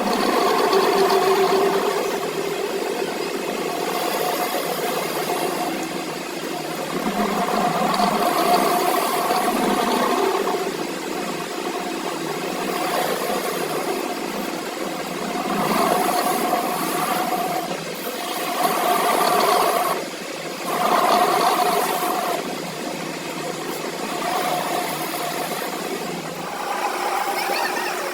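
A motor-driven machine running steadily with a constant hum, swelling and easing in loudness every few seconds.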